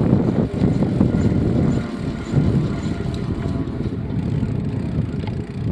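Wind buffeting the microphone of a moving bicycle rider: a loud, uneven low rumble with no clear rhythm.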